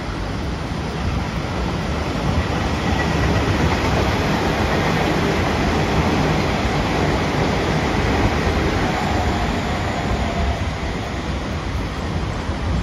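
A train running past on the line, its running noise building to a peak around the middle and easing off toward the end.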